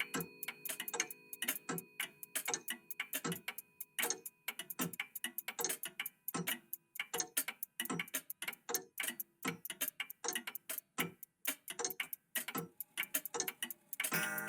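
Several old mechanical clocks, a vintage cuckoo clock among them, ticking out of step with one another in an uneven patter of sharp ticks. A faint ringing tone fades away over the first few seconds, and a plucked chord comes in right at the end.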